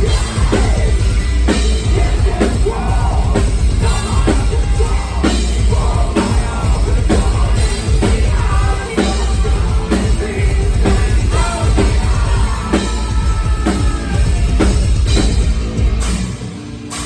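Live heavy metal band playing loud, with pounding drums, heavy guitars and bass, and sung vocals over them; the music briefly drops away near the end.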